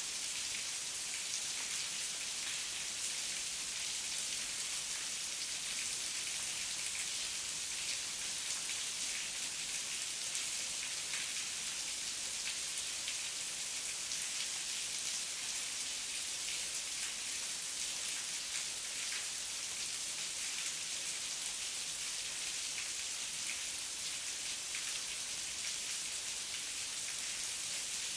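Heavy rain falling steadily: a dense, even hiss with many individual drop strikes heard through it.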